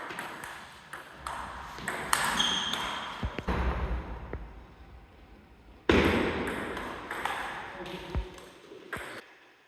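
Table tennis ball striking bats and table in a rally: a run of sharp clicks. About six seconds in, a louder burst of noise starts suddenly and fades over a few seconds.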